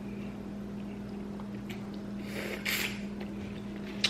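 Close-up eating sounds of a seafood boil: a short wet sucking noise about two and a half seconds in and a sharp click near the end, over a steady low hum.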